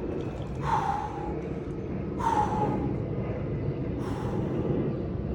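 A man breathing hard through the shock of cold water: three sharp, hissing breaths about a second and a half apart, over a steady low background rumble.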